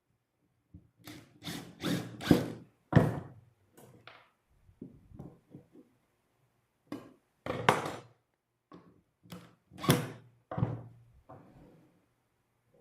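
Irregular series of sharp wooden knocks and thuds, about a dozen, in two clusters: the handling and knocking of cedar boards and bench parts.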